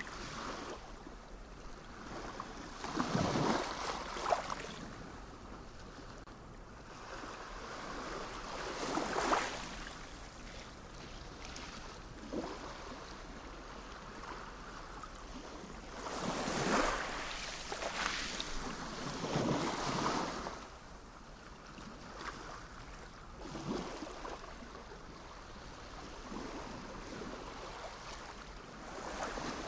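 Sea waves breaking and washing onto the shore in slow, irregular swells, about five in all. The strongest come a few seconds in and around the middle.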